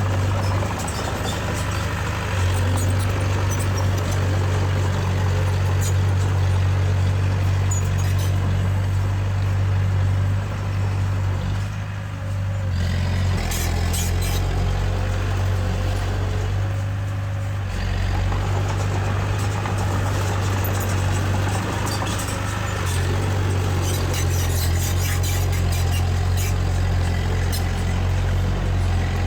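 Diesel engine of a small Komatsu D20A crawler bulldozer running steadily under work, its low hum changing note briefly twice, with scattered light metallic clicks and clanks.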